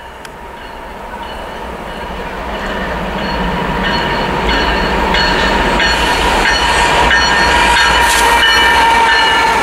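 CSX freight train led by three GE diesel locomotives (ES44AH, C40-8, ES44AH) approaching, its engines and rail noise growing steadily louder as it nears. Steady high-pitched tones run over the rumble.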